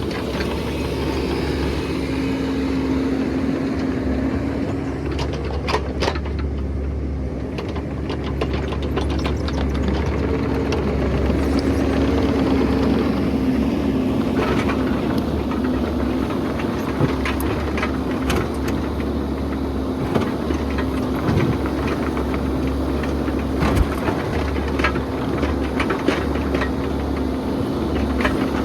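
Excavator's diesel engine running steadily, with scattered short clicks and knocks.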